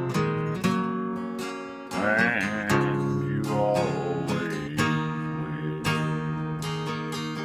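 Acoustic guitar strummed in steady chords. From about two to five seconds in, a wavering melodic line rises over the guitar.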